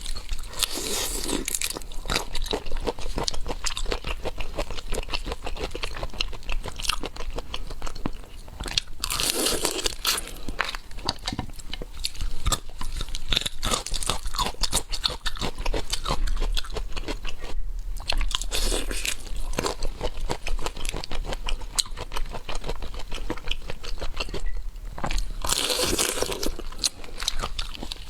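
Close-miked eating of seafood: a dense run of crunching and wet chewing clicks, with louder stretches about every eight or nine seconds.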